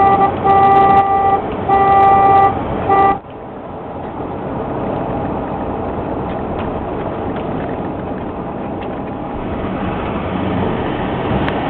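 Vehicle horn honking in four blasts over the first three seconds, then cutting off; after that, steady road and engine noise of a moving vehicle.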